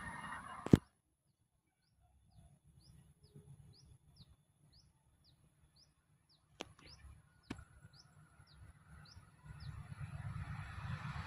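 A small bird calling a short, high chirp over and over, about two a second, over an otherwise quiet background. A sharp click comes about a second in and two more near the middle, and a low rumble builds near the end.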